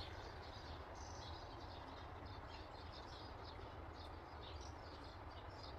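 Many small birds chirping in quick, overlapping calls, over a low steady rumble of wind or background noise.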